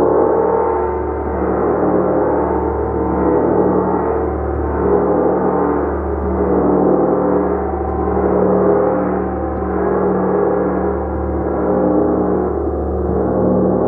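Gong played continuously, a dense sustained wash of overlapping tones that swells and eases a little under every two seconds.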